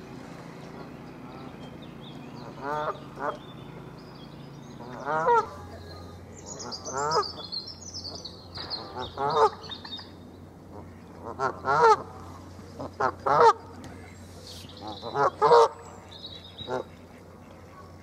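Loud, harsh honking bird calls, mostly in quick pairs, repeated every second or two, with thin high chirps of small birds in between.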